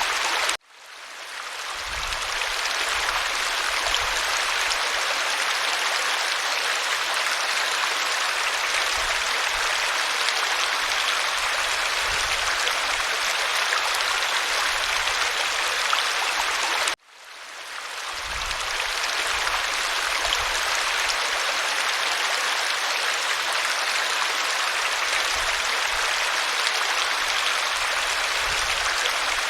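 Waterfall: a steady rush of falling water that cuts out abruptly twice, once under a second in and again about 17 seconds in, each time fading back in over a couple of seconds.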